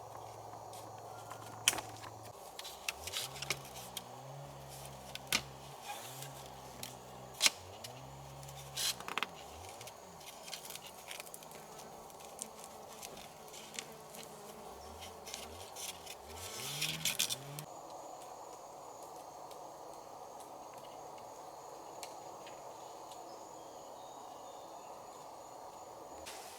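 A flying insect buzzing close by, its low hum rising and falling and stopping near the end, over a steady background of rainforest insects, with scattered sharp knocks and clicks.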